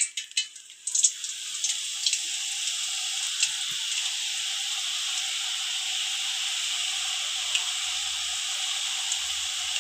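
Sev (thin gram-flour noodles) sizzling steadily as the batter is pressed into hot oil, with small crackles. The sizzle starts about a second in, once the strands hit oil hot enough to make them rise at once.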